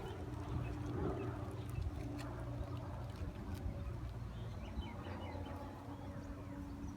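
Outdoor ambience: a steady low hum with faint, scattered bird chirps.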